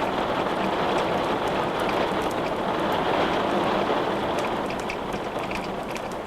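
Steady heavy rain hiss, easing slightly after about four seconds. Scattered sharp crackles from wood burning in a fireplace run through it.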